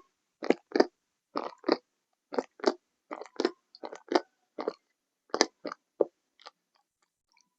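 Crunchy ASMR ball giving short, sharp crunches, mostly in pairs about a second apart, which stop a little over six seconds in.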